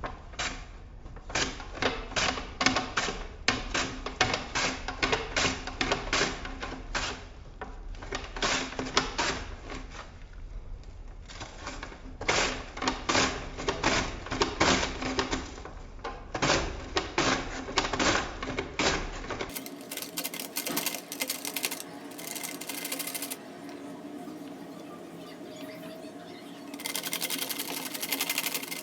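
Knife slicing onions on a cutting board: quick runs of sharp chopping strokes with short pauses. About twenty seconds in, the chopping gives way to a steadier hiss with fainter clicks.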